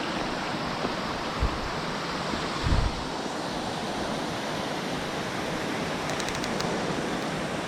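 Steady rush of water from a mountain stream and waterfall, with two dull low thumps about one and a half and three seconds in.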